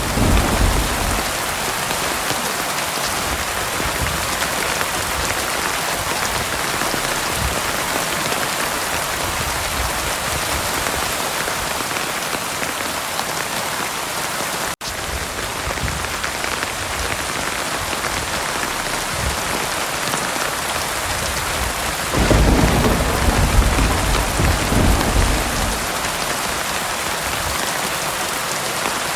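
Steady heavy rain, with a deep rumble of thunder fading out at the start and another rolling in about two-thirds of the way through and lasting a few seconds. The sound drops out for an instant about halfway.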